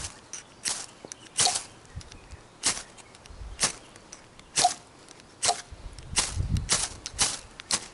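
Ferro rod being struck with a scraper to throw sparks onto tinder: a series of short, sharp rasping scrapes, about one a second and quickening near the end. A low wind rumble comes in briefly near the end.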